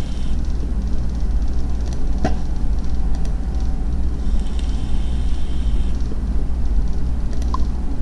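Steady low rumble of background noise, with a couple of faint short ticks.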